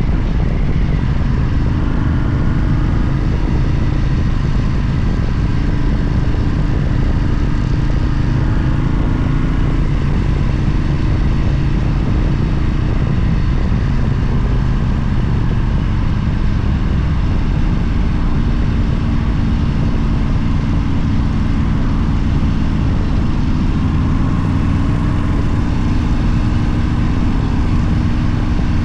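Motorcycle engine running steadily under way, its pitch shifting a little, over a heavy rumble of wind and road noise.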